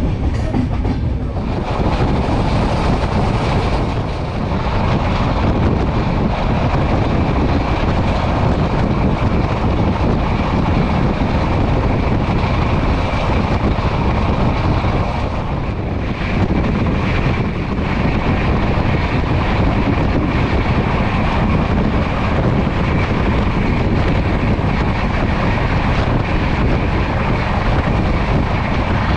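Passenger train running at speed: a steady rumble and rush of wheels on rail and moving air.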